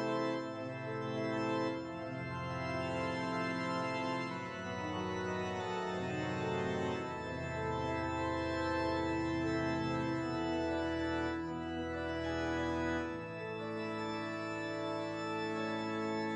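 Organ music: sustained chords over a held bass, the notes shifting every second or two, played as a silent-film accompaniment.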